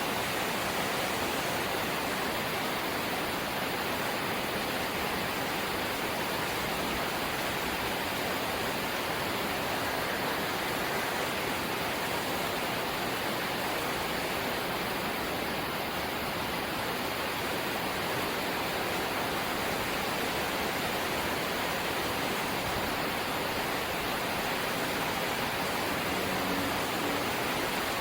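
Rain falling steadily on a corrugated zinc (sheet-metal) house roof, an even, unbroken rush with no letting up.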